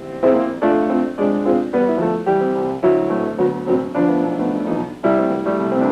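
Background piano music playing a lively run of notes and chords.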